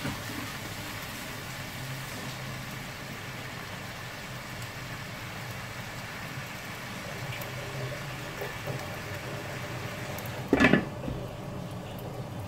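Mussels steaming and sizzling in a wok over a gas burner, a steady hiss with a low hum. About ten and a half seconds in, a glass lid is set on the wok with one short, loud clatter.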